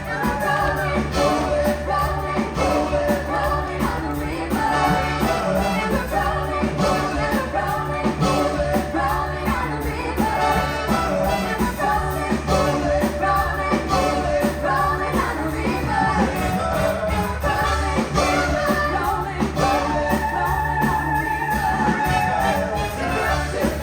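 Live stage-show music: singers with a band and orchestra playing an upbeat pop-rock number over a steady beat.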